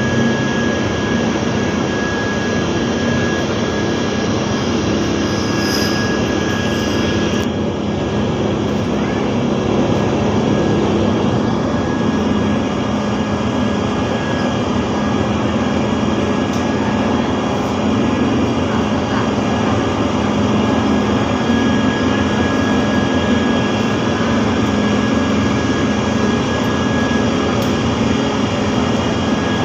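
A ship's engines run with a loud, steady drone and a thin constant whine over it.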